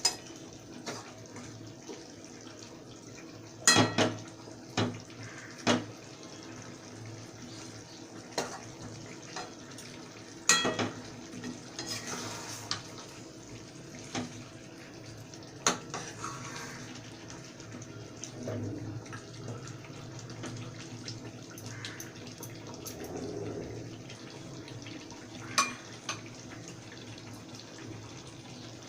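A metal spoon or spatula knocking and scraping against a cooking pan, with about half a dozen sharp clanks, as chicken is stirred and fried down in its own juices. A steady sizzle runs underneath.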